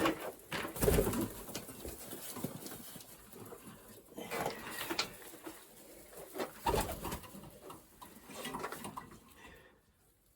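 Racing pigeons cooing in a small loft, with a few knocks, loudest about a second in and near seven seconds.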